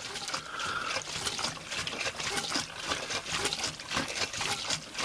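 Water trickling and splashing steadily, with an irregular patter of small drips.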